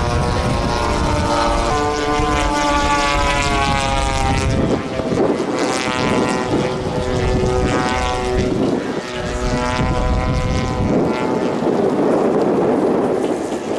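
Propeller-driven giant-scale radio-control warbird model flying past, several engine and propeller tones sliding up and down in pitch as it passes, with wind buffeting the microphone.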